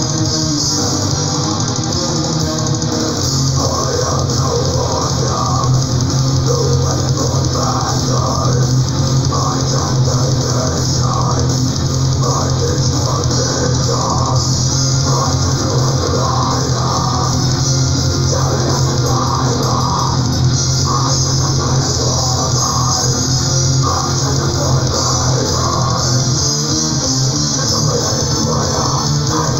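Black metal played at full tilt: dense, distorted electric guitars over bass and drum kit, loud and unbroken. It cuts off at the very end.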